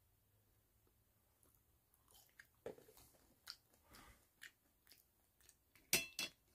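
Close-up chewing and crunching of a crisp tostada shell: a run of short crunches begins about two seconds in, with the loudest crack near the end.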